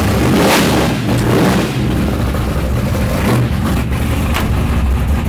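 Loud V8 race car engine running with a deep rumble, heard from inside the car.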